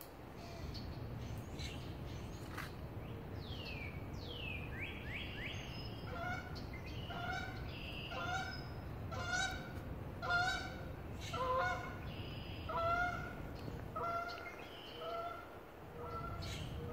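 A bird calling in a regular run of short, pitched calls, about one a second, from about six seconds in. A few high, quickly falling whistled notes come earlier.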